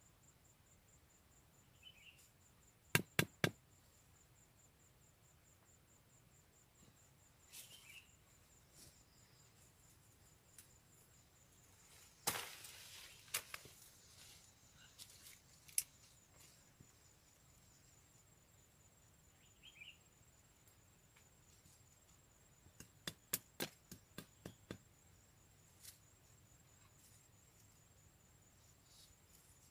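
Sparse sharp wooden clicks and knocks in short clusters: three quick ones near the start, a louder group about midway, and a run of six or so later. A faint steady high insect drone sounds underneath.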